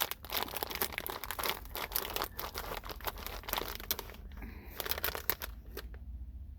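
Plastic candy bag crinkling as a hand rummages through the candies inside, a dense run of crackles that stops about five and a half seconds in.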